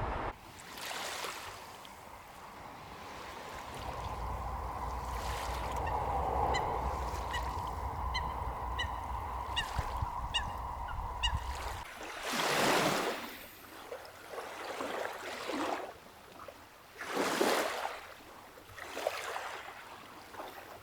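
Waterfowl honking in a run of short, quick calls over a steady hum, followed by small lake waves washing ashore in slow swells.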